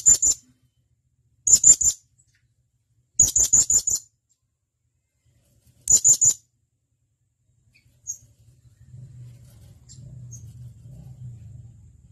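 Blue-crowned hanging parrot (serindit) giving sharp, high-pitched calls in four quick bursts of three to five notes each over the first six seconds. A faint low hum follows in the second half.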